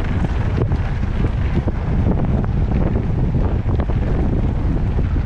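Wind buffeting the microphone of a camera on a moving mountain bike: a loud, steady low rumble with scattered clicks and knocks.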